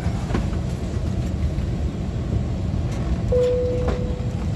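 Steady low rumble inside the cabin of a parked Airbus A321-200, with a few faint clicks and a brief steady tone about three seconds in.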